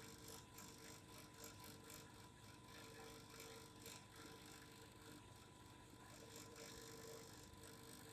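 Faint steady vibration hum with a few held tones and light, irregular ticking or rattling over it.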